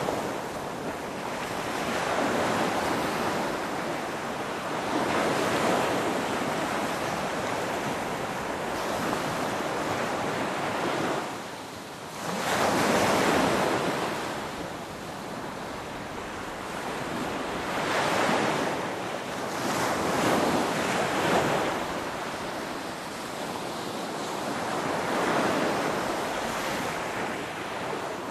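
Ocean waves breaking and washing ashore, the surf swelling and fading every few seconds, with the biggest wave breaking about halfway through.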